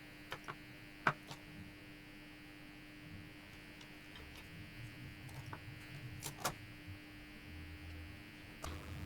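Steady electrical hum under a few small, sharp clicks and taps from handling craft materials, the loudest about a second in and another pair near six and a half seconds.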